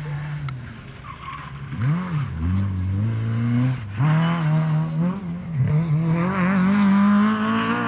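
Rally car engine revving hard, its note dropping and climbing back several times as the car is driven.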